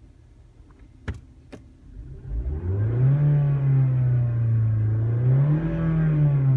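Two sharp clicks, then a 2012 Mazda CX-5's engine comes up loud, its pitch rising over about a second and holding. Near the end it rises once more and falls back.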